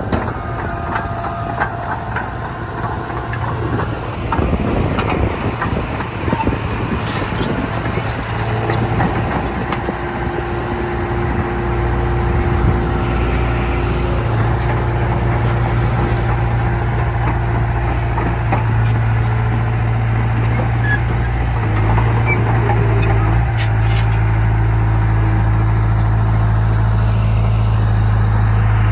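Heavy diesel engines of earthmoving machinery running, with clanks and knocks in the first half. The engine note becomes steadier and louder from about twelve seconds in.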